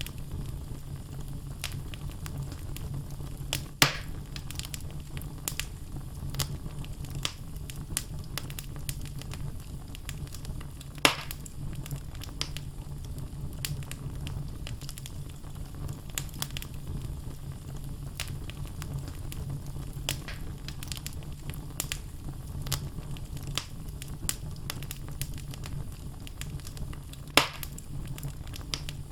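Wood fire burning in a fireplace: a steady low rumble of flame with frequent small crackles, and three louder pops from the logs at about 4, 11 and 27 seconds in.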